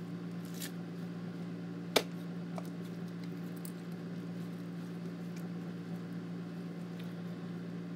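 Steady hum of a room air conditioner, with faint sticky clicks and squishes of slime being handled and pulled, and one sharp click about two seconds in.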